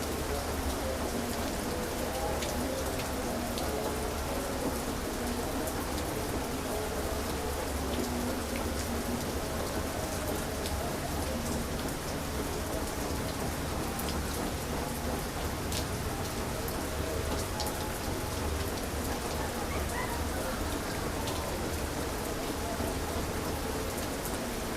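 Heavy rain falling steadily, with individual drops ticking on a hard surface over a continuous low rumble.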